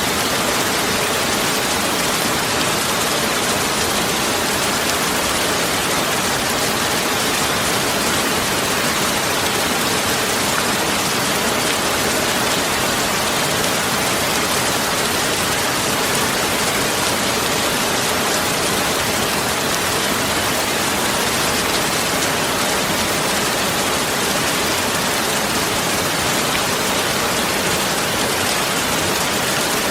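Steady, even rushing noise of the rain kind, unchanging throughout.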